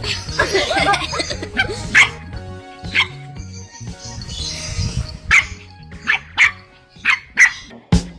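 A dog barking several times over background music.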